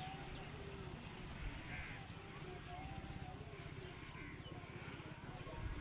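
Pigeons cooing faintly, short rising-and-falling coos repeated every second or two, over a steady low rumble.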